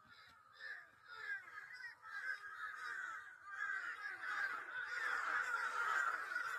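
A flock of crows cawing, many calls overlapping into a continuous chorus that grows denser and louder after the first couple of seconds.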